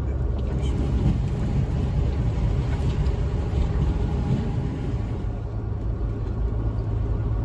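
Truck driving along a highway: steady low rumble of the engine and road noise.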